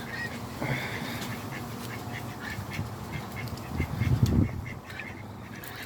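Ducks quacking in short repeated calls, with a brief low rumble about four seconds in.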